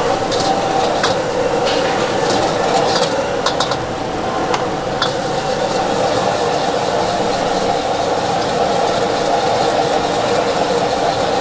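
Food sizzling as it is stirred and fried in a pan at a street-food stall, steady throughout, with scattered clicks of a utensil against the pan in the first half.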